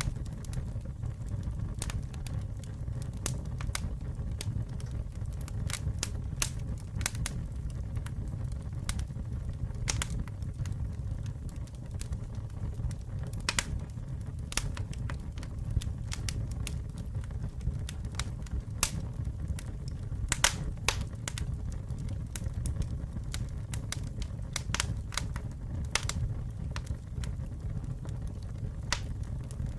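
Campfire burning, with a steady low rumble and frequent irregular sharp crackles and pops from the wood.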